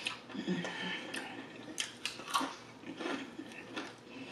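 Close-miked chewing of crispy fried chicken, with irregular crunches and mouth clicks.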